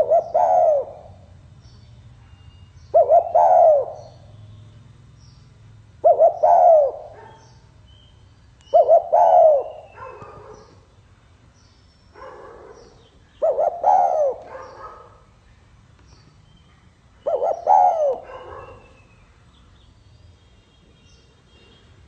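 Spotted dove cooing: seven calls about three seconds apart, each a short phrase of low notes, one noticeably fainter than the others.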